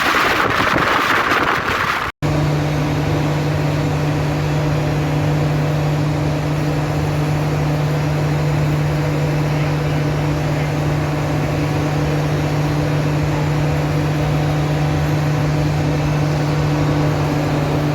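Loud train noise for about the first two seconds, cut off abruptly, then a train's engine running with a steady, unchanging low hum.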